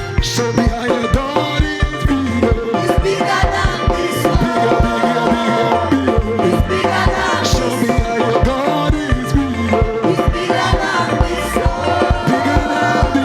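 Upbeat praise and worship music: dense percussion with a quick steady beat under pitched instruments, with what may be singing over it.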